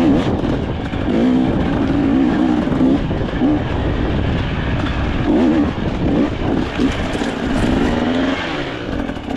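Dirt bike engine revving up and down under changing throttle while riding off-road.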